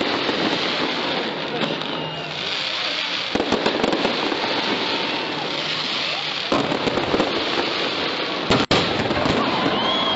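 Fireworks display: a dense, continuous crackling and popping of many shells bursting, with a momentary drop-out about eight and a half seconds in.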